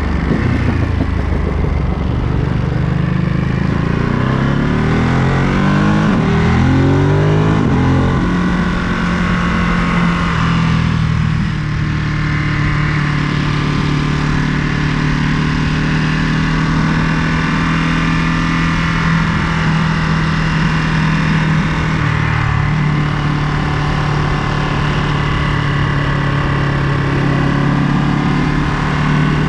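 Ducati Monster 937's 937 cc L-twin engine pulling up through the gears, its pitch rising and dropping several times over the first eight seconds, then running at a steady cruise.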